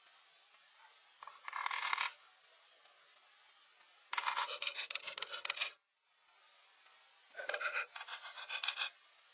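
Three bouts of rasping, a tool scraping or filing against wood with quick strokes. Each bout lasts one to one and a half seconds, with pauses of about two seconds between them.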